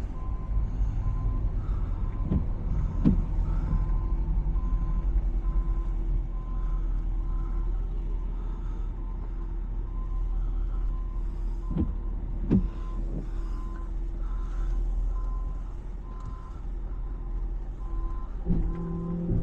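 Tow truck's diesel engine running steadily while its backup warning alarm beeps at an even pace, with a few metal clanks around 2 to 3 seconds in and again about 12 seconds in.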